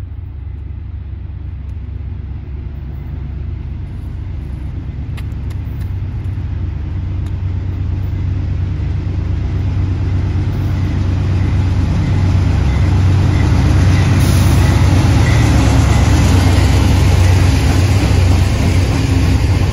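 Freight train approaching and passing: a low rumble that grows steadily louder and brighter until about fourteen seconds in, then holds as the freight cars roll by.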